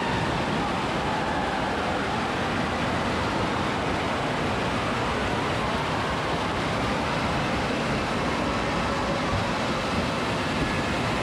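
Steady, unbroken din of an indoor waterpark: rushing water and faint distant voices.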